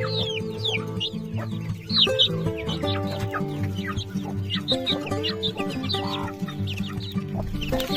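Shamo chickens calling: many short, high peeps that fall in pitch, over background music with steady held notes.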